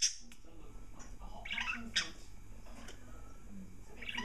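Budgerigars chattering in a nest box: a few short, scratchy chirps about a second and a half in and again near the end, with a faint click or two between them.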